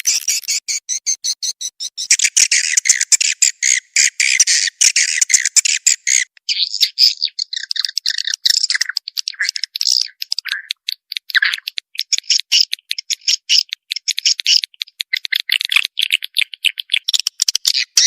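Swiftlet calls played as a lure sound: a dense, unbroken stream of rapid, raspy chirps and clicking twitters, all at mid to high pitch.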